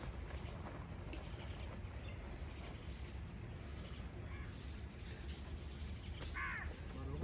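Forest evening ambience: a steady low rumble with faint insect chirring high up, and a short bird call about six seconds in.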